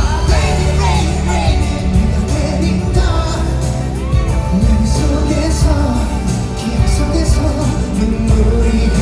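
Live pop concert music recorded from the audience: a singer's voice over a loud backing track with heavy bass.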